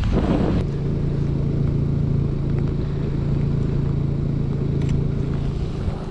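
A car engine running at a steady, unchanging pitch for several seconds, after a short rush of wind noise on the microphone at the start.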